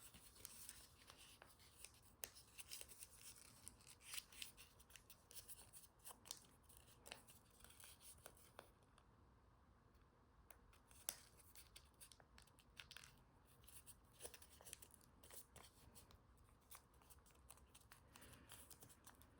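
Faint rustling and crackling of origami paper being folded, creased and tucked by hand, with scattered small clicks.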